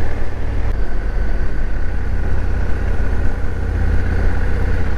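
Motorcycle engine running steadily at low revs, with no change in pitch.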